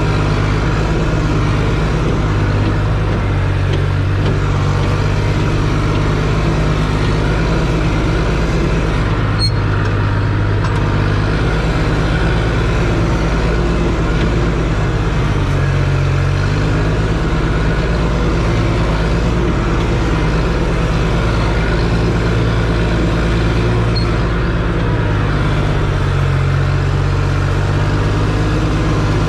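Case C60 tractor engine running steadily, a continuous low drone that shifts a little in pitch a few times.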